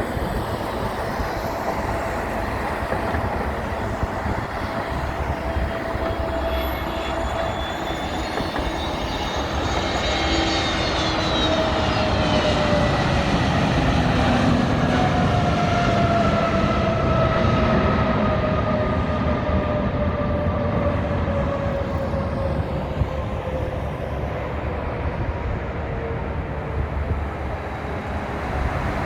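Airbus A320neo jet airliner with CFM LEAP-1A turbofan engines flying past on its landing approach: a steady engine rumble with whining tones that fall in pitch as it passes, loudest about halfway through.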